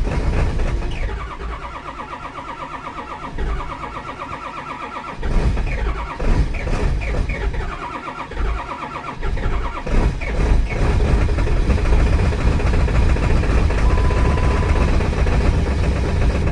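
Ford diesel truck engine cold-starting in deep cold. The starter cranks it in stretches, the engine begins to catch and stumble about five seconds in, and it fires and settles into a steady run from about eleven seconds.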